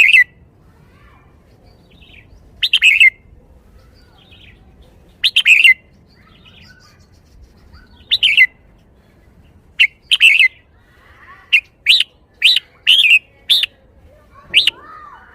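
Red-whiskered bulbul singing short, loud chirping phrases, a few seconds apart at first and then in quick succession near the end.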